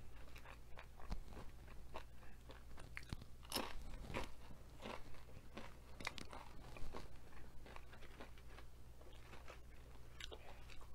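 Close-up chewing of crunchy tortilla-chip nachos: irregular crunches and moist chewing sounds, over a steady low hum.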